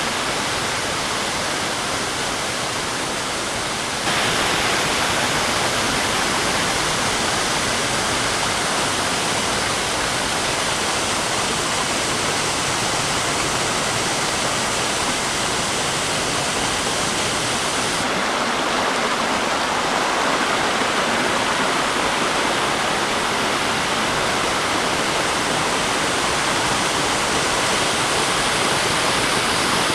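Waterfall plunging into a gorge: a steady, loud rush of falling water. It steps louder about four seconds in, and its tone changes again about eighteen seconds in.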